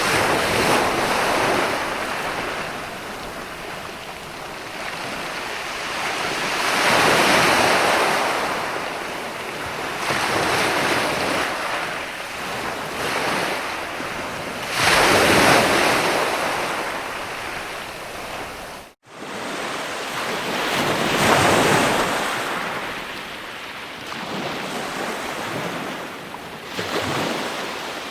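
Ocean waves washing onto a shore in slow, rhythmic surges, each swelling and then fading over several seconds, about four in all. The sound drops out for an instant about two-thirds of the way through.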